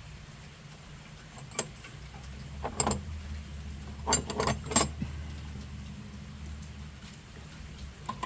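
A few light metallic clicks and clinks from parts and tools being handled in a car's engine bay: one about a second and a half in, another near three seconds, then a quick cluster around four to five seconds, over a steady low hum.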